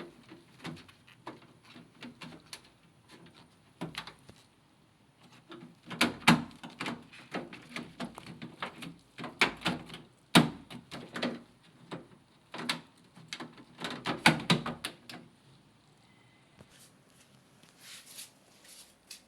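Irregular knocks, clicks and rattles of objects being handled, like parts or panels of an appliance. They come thick and loud from about six to fifteen seconds in, then thin out to a few faint taps.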